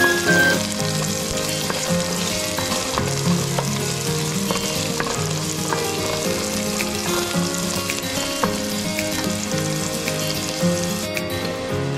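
Sliced onion, garlic and ginger sizzling in hot oil in a non-stick pot, with scattered light clicks and scrapes as a wooden spoon stirs them.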